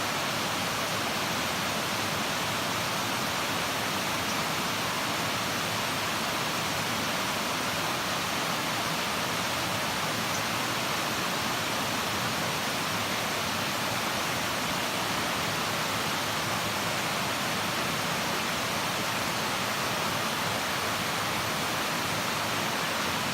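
Water pouring over a mill pond dam's waterfall: a steady, unchanging rush of falling water.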